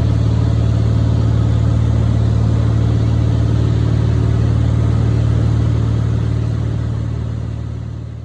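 Steady drone of a small piston-engine airplane's engine and propeller, heard from inside the cabin, fading out near the end.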